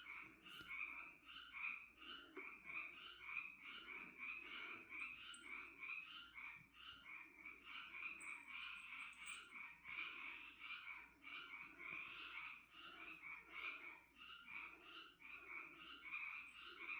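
A chorus of frogs calling steadily and faintly, many overlapping repeated calls.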